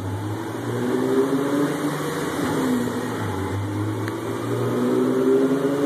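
Nissan 370Z's 3.7-litre V6 running steadily near idle through a Fast Intentions long-tube header and aftermarket exhaust, with a low, even drone.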